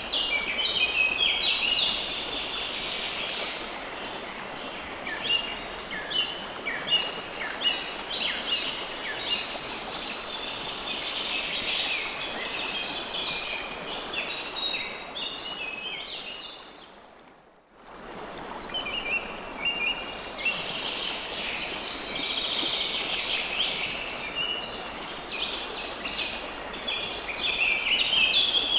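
Running river water with a chorus of small birds chirping rapidly over it. About two-thirds of the way through, both fade almost to silence for about a second and then return.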